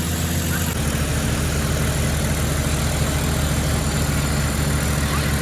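An engine idling steadily, with a low, even sound. The sound changes abruptly about a second in.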